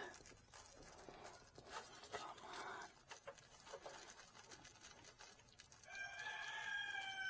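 A rooster crows once near the end: one long call of about two seconds, sinking slightly in pitch. Before it, faint scattered clicks and taps.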